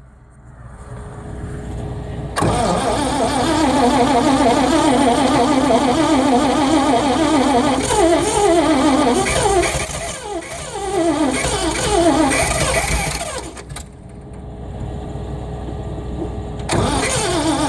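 Cockshutt 555 combine's straight-piped Chrysler 318 V8 being cranked by the starter on a cold start near freezing, its pitch rising and falling as it tries to catch but not running. It stops about 14 seconds in and cranking starts again near the end; the engine is flooded.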